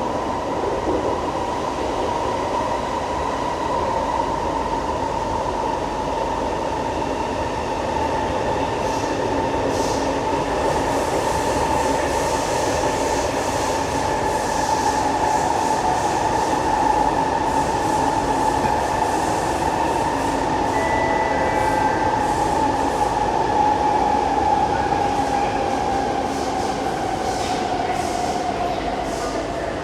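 Siemens C651 metro train running in a tunnel: steady wheel and running noise under a whine from the traction equipment. The whine slowly falls in pitch toward the end as the train slows.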